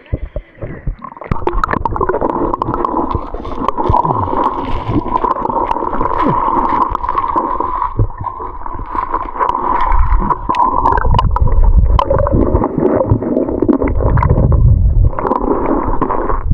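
Water gurgling and sloshing close to the microphone, with many small knocks and clicks throughout and deeper rumbles in the second half.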